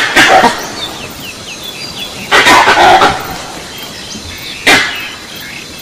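Recorded dog barking played through the Kethi Rakshak animal-repellent device's loudspeaker: a few loud barks a second or two apart, one drawn out about two and a half seconds in. These are the scare sounds it plays to drive wild animals off crops. Small birds chirp faintly between the barks.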